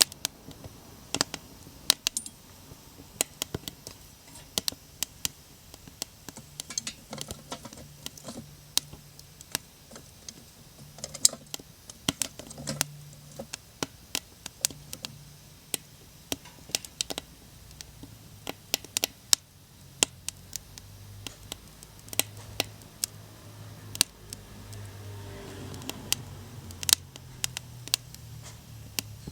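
Small wood fire crackling, with irregular sharp pops and snaps several times a second. A faint low hum runs underneath.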